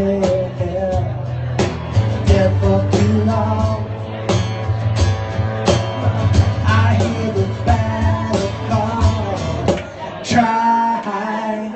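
Live rock band playing a song: a steady drum beat, bass and guitar, with singing. About ten seconds in the drums and bass drop out, leaving a held note.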